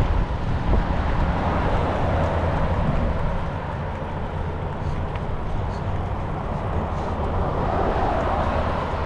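Wind buffeting the microphone as a steady low rumble, with no distinct events.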